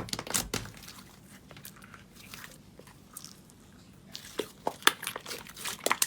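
Crunchy slime being squeezed and pressed, giving sharp crackles and pops. They come thick at the start, thin out in the middle, and come thick again from about four seconds in.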